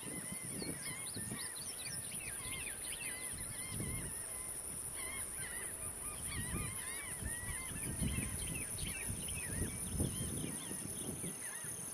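Birds calling over and over in short chirping notes that bend up and down, over a steady high-pitched hiss and irregular low rumbles.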